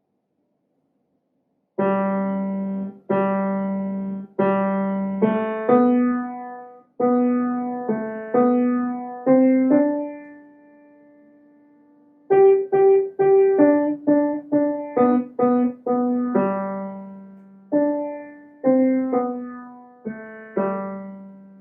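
Piano played at a slow pace, mostly one note at a time with a few fuller chords, starting about two seconds in. A phrase ends on a held note that fades for a couple of seconds before the playing picks up again at a slightly livelier pace.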